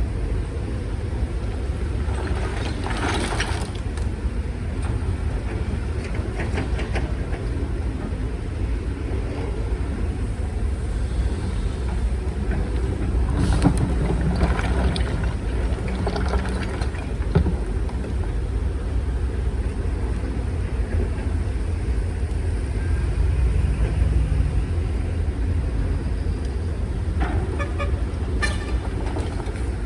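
Heavy diesel earthmoving machinery running with a steady low rumble, with a few metallic clanks and scrapes and a short rise in engine note along the way.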